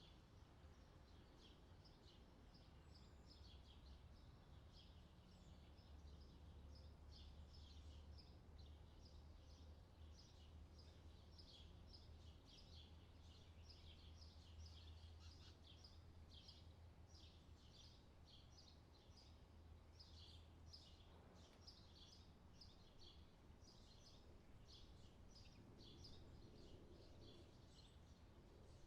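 Faint forest birdsong: a dense run of quick, high chirps from small birds, over a low steady hum.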